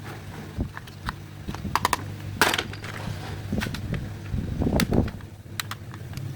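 Small hard objects handled and knocked together: scattered clicks and rattles, loudest about two and a half seconds in and again near five seconds, over a steady low hum.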